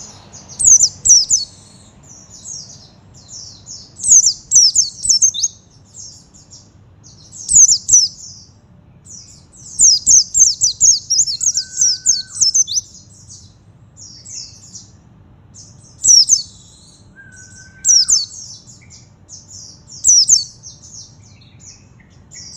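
Pleci (white-eye, Zosterops) singing: rapid, high-pitched twittering phrases in repeated bursts every two or three seconds, with short gaps between.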